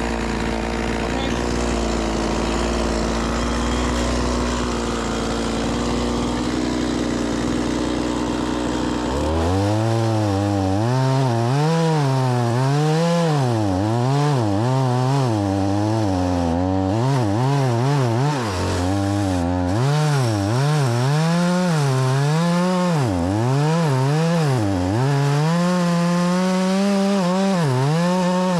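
Stihl MS 180 two-stroke chainsaw running, its engine note steady at first. From about a third of the way in, the pitch rises and falls again and again as it revs and bogs down while cutting through firewood logs.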